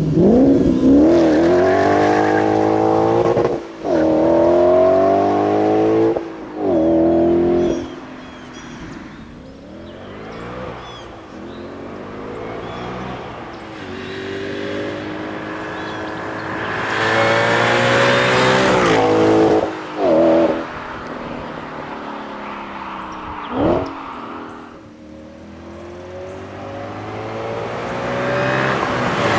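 Supercharged 4.2-litre FSI V8 of an Audi B8 S5 through an APR RSC performance exhaust, accelerating hard through the gears. The pitch climbs in each gear and drops at each shift. Strong pulls come near the start and again a little past halfway, with short blips and quieter stretches of lighter running between them.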